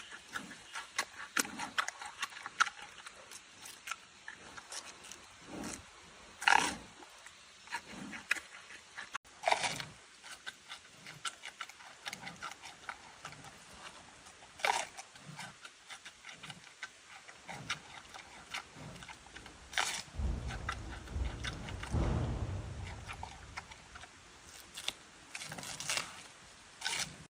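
Giant panda eating bamboo: a steady run of sharp crunches and cracks as it chews and breaks the stalks, with a few louder snaps. A low rumble comes in about two-thirds of the way through.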